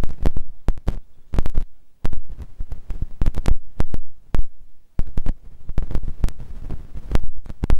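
Irregular loud low thumps and rumbling on the microphone, a few to several a second with short gaps between them, typical of wind buffeting or handling of a handheld microphone.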